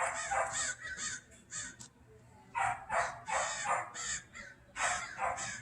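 Dog barking in three quick runs of short, harsh barks. It is a frantic, panicky barking, which the listener takes for a dog cooped up in an apartment and desperate to get outside.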